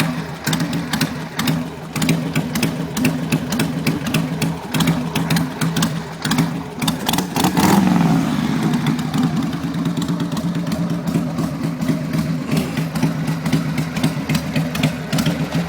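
1994 Harley-Davidson Sportster 1200-bored V-twin idling through long drag pipes in a steady, rapid loping pulse, with a brief swell about halfway through. The engine is warming up after a choked cold start and now holds an idle on its own.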